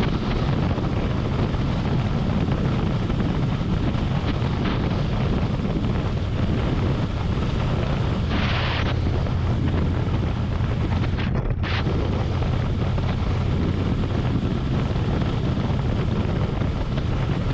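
Harley-Davidson Road Glide's V-twin engine running steadily under way, with wind rushing over the microphone. There is a brief hiss a little past the middle.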